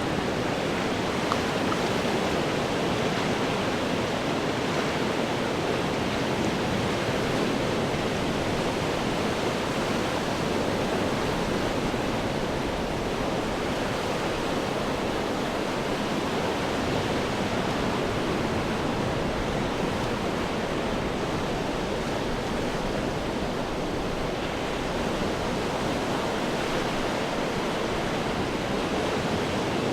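Ocean surf breaking against rocks, heard as a continuous, steady rush of churning water rather than separate wave crashes.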